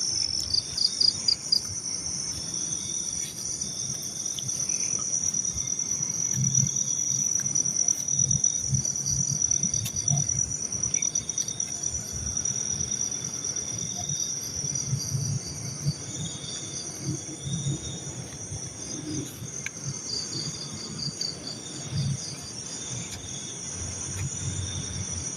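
Crickets and other night insects calling: a continuous high trill with shorter, evenly repeated chirps beneath it. Irregular low rumbling runs underneath.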